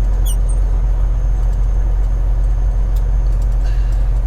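Steady low drone of a semi-truck's engine and road noise heard from inside the cab, with a faint high chirp just after the start.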